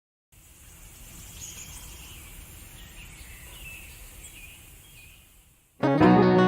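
Outdoor ambience: birds chirping over a faint, steady low background noise. Near the end, acoustic guitar music starts suddenly and much louder.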